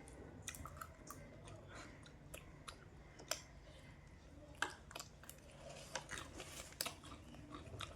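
Faint chewing of jhalmuri, spiced puffed rice, with scattered short, sharp crunches.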